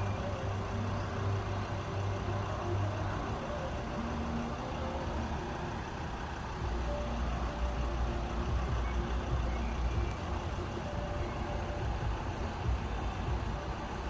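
Class 66 diesel freight locomotive's two-stroke twelve-cylinder engine running with a low, steady throb as it approaches, its pitch shifting a little about three seconds and again about six and a half seconds in.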